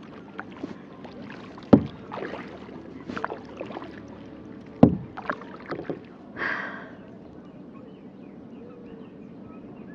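Kayak paddling: the paddle knocks sharply against the kayak twice, about two and five seconds in, among smaller clicks and splashes of the paddle in the water, with a short swish of water a little after six seconds; after that only a quieter wash of water.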